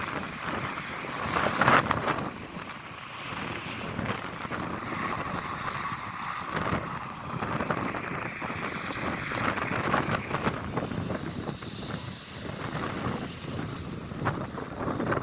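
Strong gusty wind buffeting the microphone, rising and falling in loudness.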